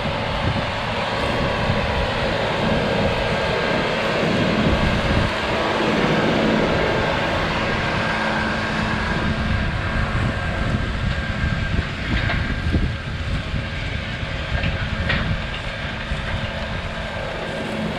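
Kubota M8 tractor's diesel engine running steadily under load while pulling a disk harrow through the ground, with the rumble and rattle of the working machinery.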